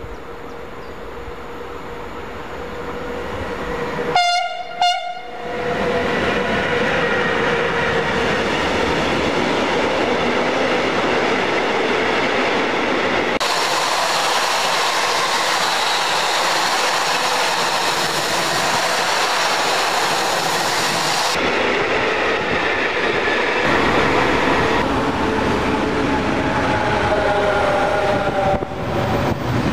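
An electric freight locomotive sounds two short horn blasts as it approaches, then its train of tank wagons rolls past close by with a steady rumble and the clatter of wheels on rail joints. Near the end another freight train, carrying containers, runs past.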